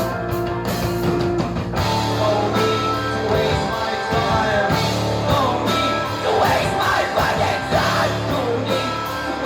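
Live rock band playing a song, with a singer's voice coming in over the guitars and bass.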